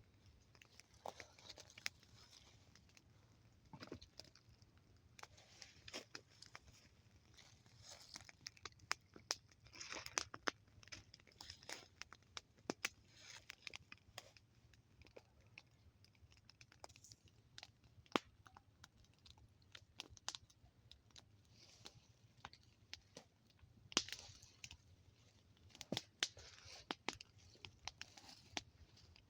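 Wood fire crackling softly, with faint irregular pops and snaps.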